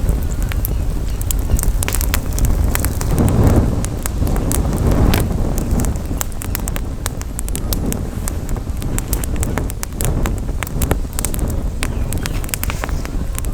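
Campfire crackling, with many sharp pops and snaps scattered irregularly through it. Wind rumbles on the microphone underneath, with a couple of brief gusts a few seconds in.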